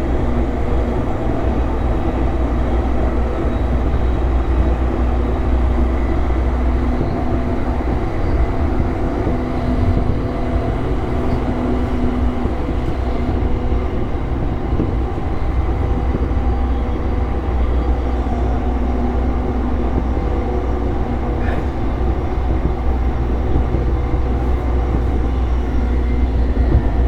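Running noise of an E233-series electric commuter train heard from inside the car: a steady low rumble of wheels on rail, with faint steady tones from the drive equipment over it.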